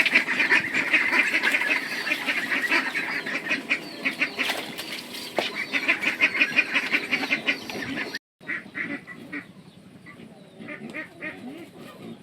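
A flock of ducks quacking in a rapid, continuous chatter; after a brief break about eight seconds in, the quacking goes on more quietly.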